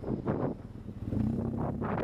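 Wind buffeting the microphone on a moving motorcycle, easing off for a moment, then a steady engine hum comes in about a second in.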